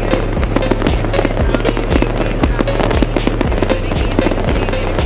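Fireworks crackling and popping in rapid, dense succession, over music with a steady, heavy bass line.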